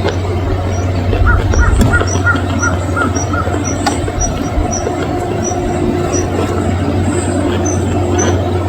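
A machine engine running steadily with a low hum and continuous rattling clatter, with a run of short, evenly spaced high chirps over it through the middle.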